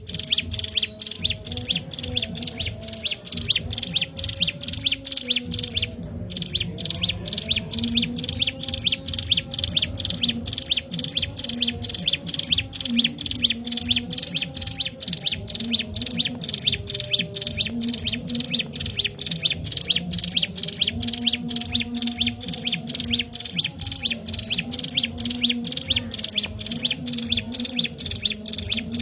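Ciblek gunung (mountain prinia) calling insistently: a long run of sharp, high chattering notes at about four a second, broken only by one short pause about six seconds in.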